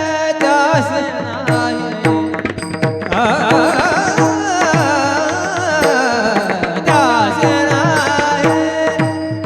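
Devotional kirtan music: a voice sings long, wavering, ornamented phrases without clear words over a steady held drone. Tabla accompanies it, its bass drum strokes sliding down in pitch. The singing grows fuller about three seconds in.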